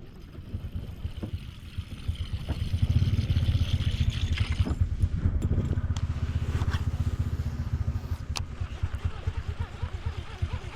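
A boat's motor running with a fast, even low pulse, growing louder about two seconds in as it speeds up, then running steadily. A few sharp clicks sound over it.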